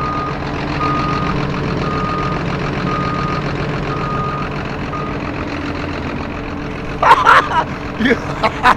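A vehicle's reversing alarm beeps about once a second over a steady diesel engine hum, then stops about five seconds in. Near the end comes a run of loud, sharp sounds.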